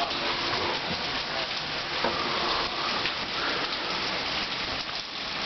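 Heavy thunderstorm rain with small hail mixed in, pelting down in a steady, dense hiss full of fine ticks.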